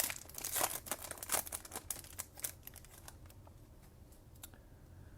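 Crinkling and crackling of a trading-card pack wrapper being torn open and handled: a quick run of short crackles over the first three seconds that thins out to faint rustles.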